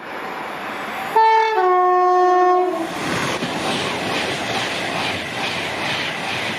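Train horn sounding two notes, a short high note then a longer low one, about a second in. It is followed by the train passing at speed, a loud steady rush with the clatter of wheels on the rails.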